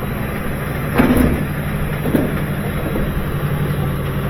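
A steady low machine hum, with a knock about a second in and a lighter click about two seconds in.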